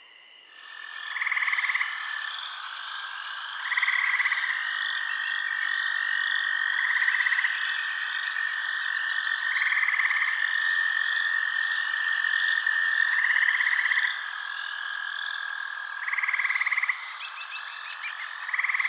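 A chorus of frogs croaking over a steady high trill, with one louder pulsed call repeating about every three seconds.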